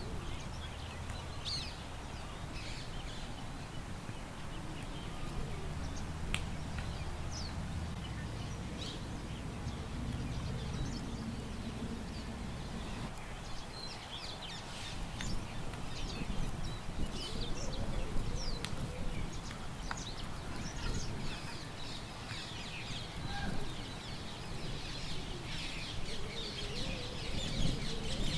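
Songbirds chirping and twittering in short scattered calls, growing busier near the end, over a steady low rumble of wind.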